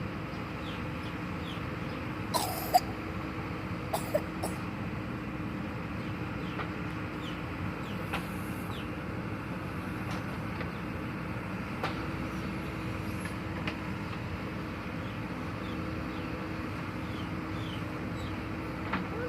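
A steady low machine hum, with short high chirps scattered throughout and a few sharp knocks about two and a half and four seconds in.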